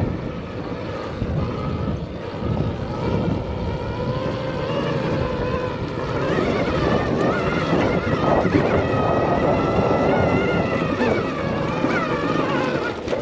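Arctic Leopard XE Pro electric dirt bike's motor whining while riding, its pitch rising and falling with the throttle, over wind noise on the microphone.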